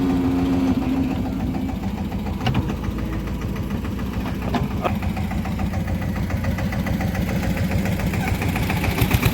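Heavy diesel engine idling steadily, with a few sharp knocks, and a louder rhythmic chugging that starts near the end.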